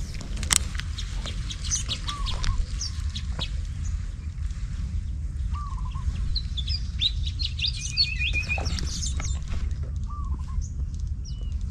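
Birds calling: a short, hooked call repeated every few seconds, with higher chirps and a brief quick trill around the middle. A steady low rumble runs underneath.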